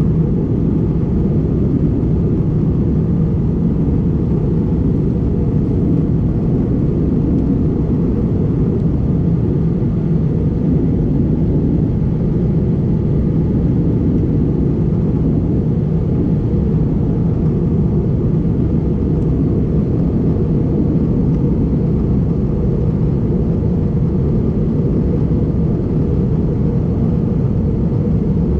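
Steady in-flight cabin noise of an Airbus A320neo (A320-271N) with Pratt & Whitney PW1100G geared turbofans: an even, low engine and airflow rumble that does not change.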